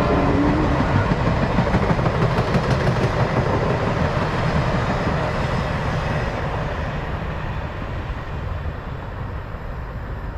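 Canadian Pacific Holiday Train rolling past on the rails, a dense clattering rumble of wheels and cars that gradually fades, losing its high end over the second half as the train moves away.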